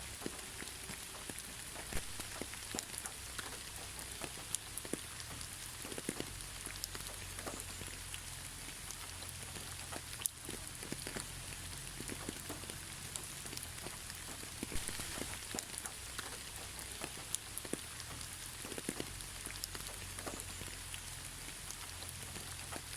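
Steady, gentle rain with many individual drops ticking and pattering on surfaces, without thunder.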